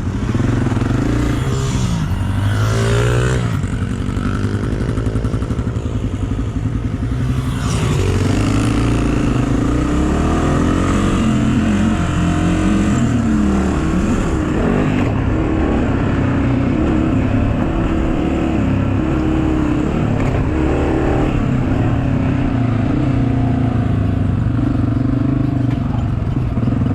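Pit bike engine running while being ridden, its pitch rising and falling repeatedly as the throttle is opened and eased off.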